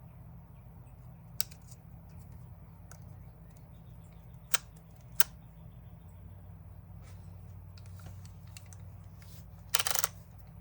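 Plastic parts of a DeWalt DCD780 cordless drill handled during reassembly: a few sharp single clicks, then near the end a quick run of rapid clicking as a part is turned, over a steady low hum.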